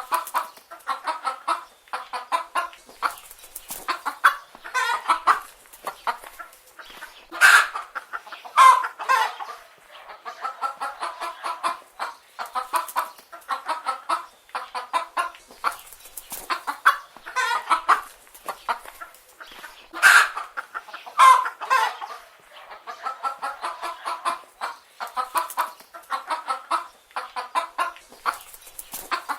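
Chicken hens clucking continuously in short, repeated calls, with a few louder calls standing out twice, about a third of the way in and again about two-thirds of the way through.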